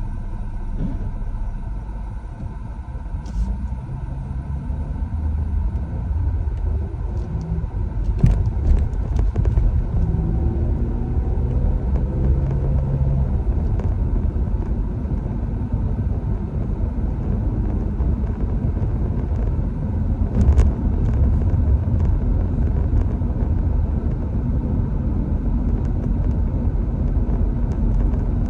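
Steady low rumble of a vehicle on the move, with a few sharp knocks, near 8 and 20 seconds in.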